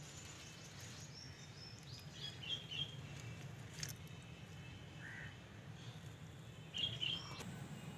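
Birds chirping: short, high chirps in quick little groups about one to three seconds in and again near the end, over a steady low background hum.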